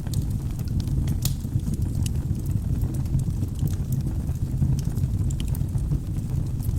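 Wood fire burning in a fireplace: a steady low rumble of the flames, with irregular small crackles and pops from the burning logs.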